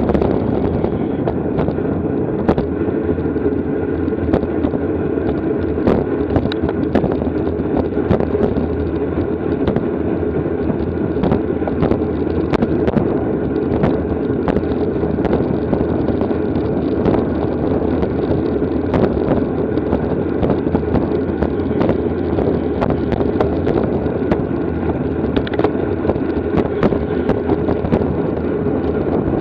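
Steady wind rushing over the microphone of a camera riding on a bicycle at racing speed, with scattered short clicks and rattles.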